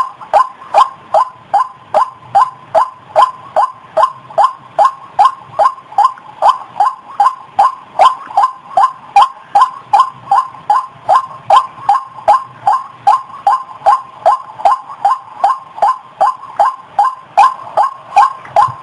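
White-breasted waterhen calling: a fast, evenly repeated series of short, down-slurred notes, about two and a half a second, without a break.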